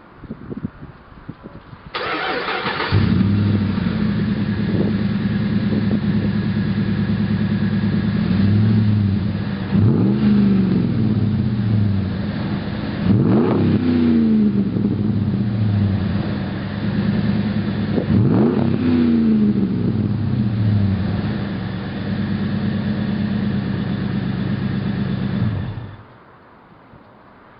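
2007 Dodge Ram 1500's 5.7-litre Hemi V8 through a Magnaflow 3-inch stainless cat-back exhaust: cranked and started about two seconds in, then idling with several quick revs, and switched off shortly before the end.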